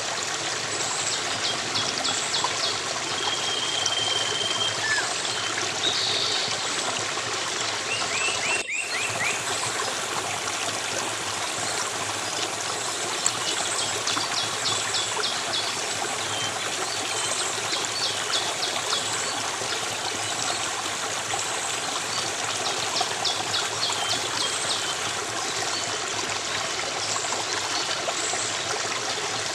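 A stream of running water flowing steadily, with repeated short, high chirping trills over it. The sound drops out for an instant about nine seconds in.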